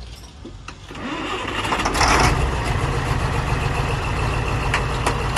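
An engine being started: about a second in it cranks and catches, briefly revs, then settles into a steady idle.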